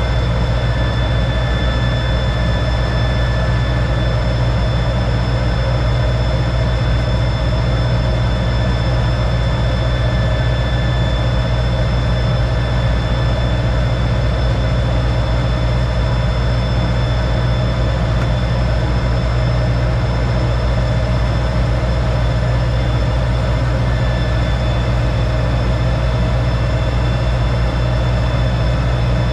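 T-33 jet trainer's turbojet running steadily, a heavy low drone with a constant high-pitched whine over it, heard from inside the cockpit.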